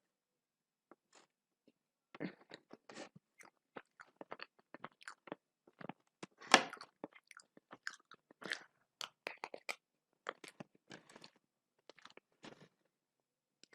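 A person eating close to the microphone: irregular crisp crunches and chewing, with one loud crunch about halfway through.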